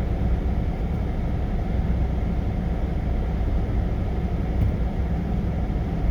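Truck engine idling steadily while stopped, a low, even rumble.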